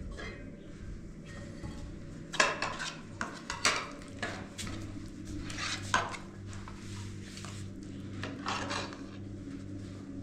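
Hard objects clinking and clattering in several short bursts, the loudest about two and a half, four and six seconds in, over a steady low hum.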